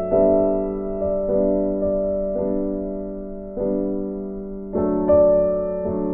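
Background piano music: slow, gentle notes and chords struck about once a second, each ringing and fading away.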